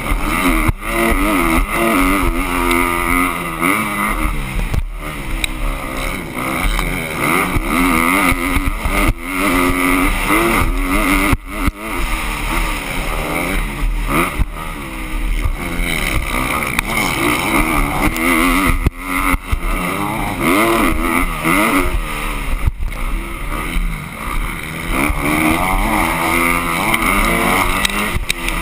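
Motocross dirt bikes on the track: several engines revving up and down, their pitches rising and falling and overlapping.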